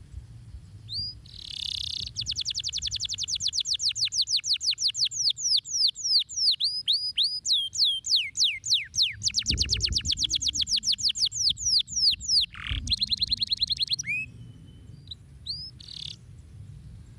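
Domestic canary singing a long song of rapid repeated trills, about ten notes a second, changing to new note patterns several times before breaking off into a few single chirps near the end.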